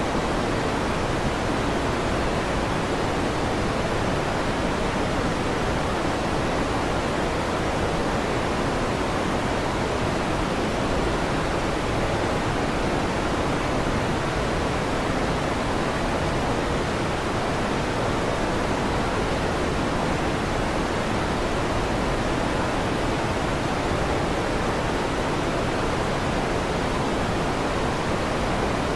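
Electric fan running: a steady, even whoosh with no change in level and no thunder claps.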